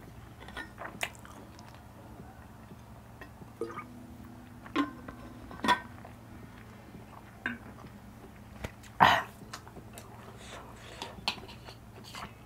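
Close-miked chewing of a mouthful of spicy instant noodles, heard as soft, scattered wet mouth clicks and smacks. The loudest comes about nine seconds in.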